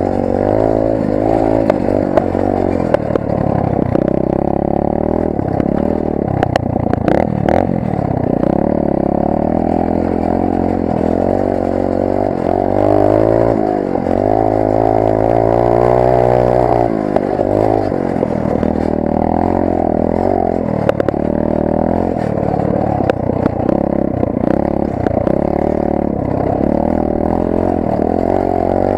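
Rampage 125 cc pit bike's single-cylinder engine revving up and falling back again and again as the bike is ridden along a trail, heard from onboard. It holds high revs for a few seconds around the middle. A cluster of rattling knocks comes about seven seconds in.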